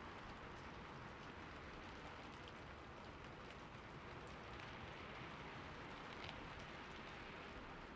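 Steady rain falling on a roof: an even hiss of rain with scattered light ticks of individual drops.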